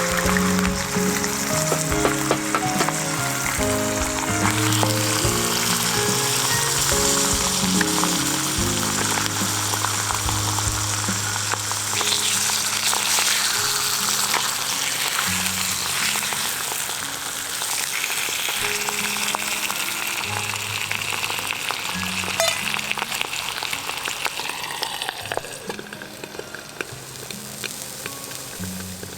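Food sizzling and spattering in a pan over a camp fire, with background music playing under it; the sizzling dies down near the end.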